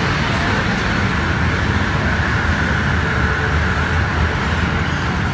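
Cabin noise of a Korean-built MTR Tung Chung line electric train running through a tunnel: a steady rumble of wheels on rail with a hiss above it, with no change in level.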